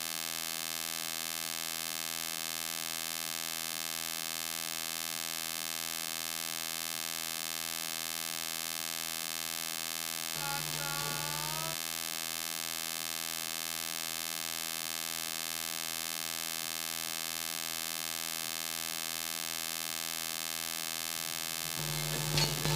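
Steady electrical mains hum, a buzz with many even overtones and a faint low pulsing. A brief faint sound breaks in about ten and a half seconds in, and a short louder sound comes just before the end.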